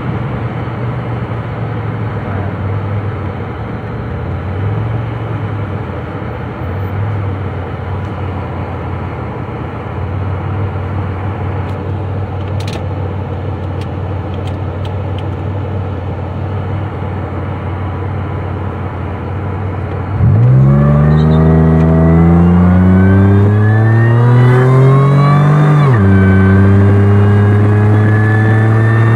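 Car engine and road noise heard from inside the cabin: a steady cruising drone for most of the time. About two-thirds of the way through, the throttle opens hard and the engine gets much louder, its revs climbing with a high whine rising alongside. The revs drop suddenly at an upshift and then climb again as the car keeps accelerating.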